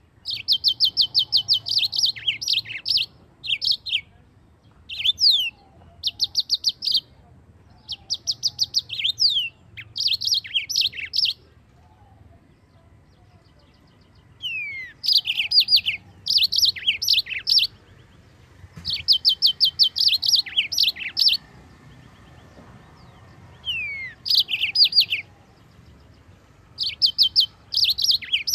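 Yellow-fronted canary (Mozambique canary) singing: high, rapid trilled phrases of a second or two each with falling slurs, repeated with short pauses between them.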